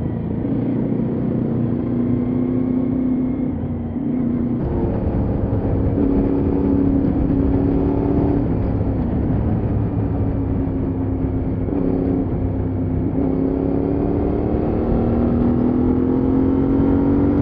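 Adventure motorcycle engines accelerating away through the gears, pitch rising and dropping with each shift, with a few abrupt jumps where shots are cut together. The pitch climbs steadily near the end.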